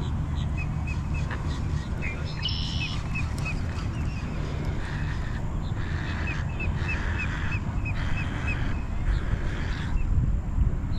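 Birds calling outdoors: runs of short high chirps repeated about three times a second, with other calls in between, over a steady low rumble that swells near the end.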